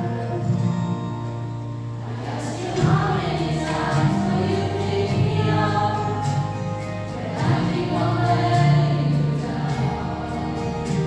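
Student choir singing a gospel-style Christian song over a steady low accompaniment, with long held notes.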